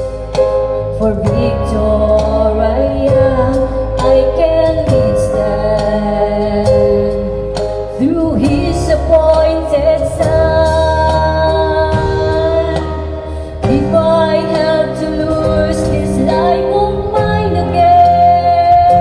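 Gospel song: a woman singing over instrumental accompaniment.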